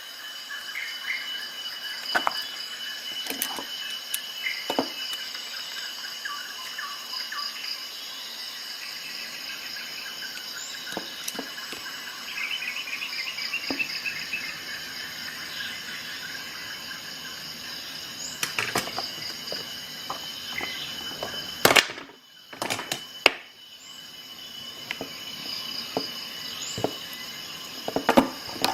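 Steady chirring of insects, like crickets, in the background, with scattered sharp clicks and snaps; the two loudest clicks come a little over twenty seconds in.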